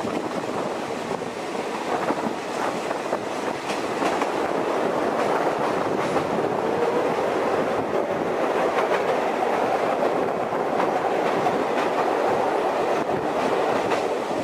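Passenger train running along the track, a steady rolling rumble with the clickety-clack of wheels over the rails, growing louder about four seconds in.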